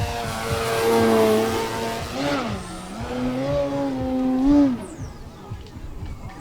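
Electric motor and propeller of an Extra NG 60-inch Skywing aerobatic RC plane running under changing throttle, a steady pitched hum. Its pitch dips about two seconds in, climbs back and holds, then falls away near the end.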